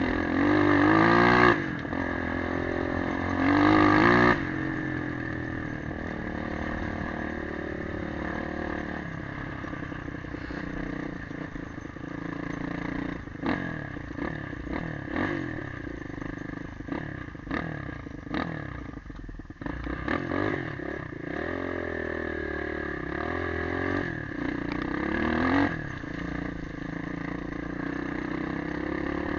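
Motorcycle engine on the move, revving up in two rising sweeps in the first few seconds as it accelerates through the gears. It then runs steadier with scattered knocks through the middle, and picks up speed again twice in the last several seconds.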